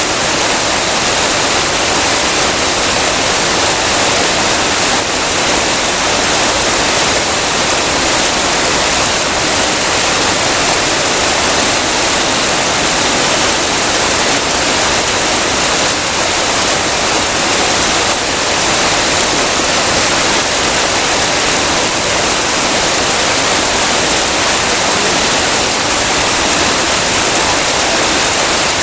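Heavy rain falling as a steady, even hiss with no breaks.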